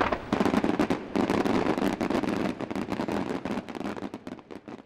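Fireworks crackling: a dense run of quick pops and cracks that gradually fades away towards the end.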